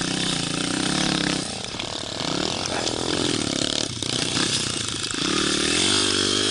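Pit bike's small single-cylinder four-stroke engine revving under throttle, easing off about a second and a half in and climbing in pitch again near the end.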